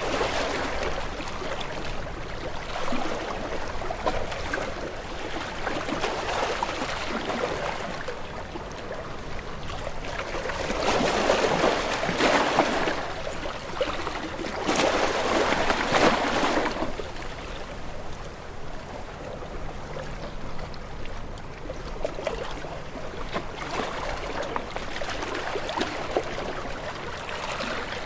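Waves washing in a steady watery hiss, with two louder surges about eleven and fifteen seconds in.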